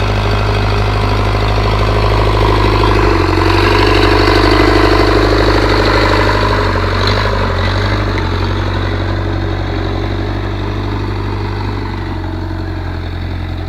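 Engine of a tractor built from an ARO off-road vehicle, idling steadily. It gets a little louder about three seconds in, then slowly fades toward the end.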